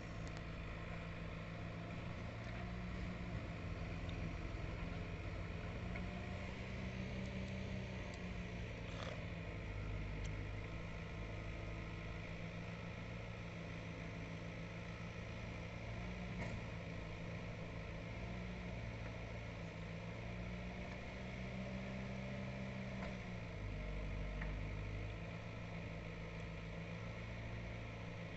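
Heavy diesel engine running under varying throttle, its pitch rising and falling several times as it works.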